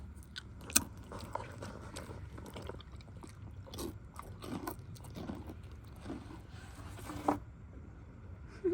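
A donkey chewing and crunching a rice cracker: a run of crisp crunches, with two sharper cracks about a second in and near the end.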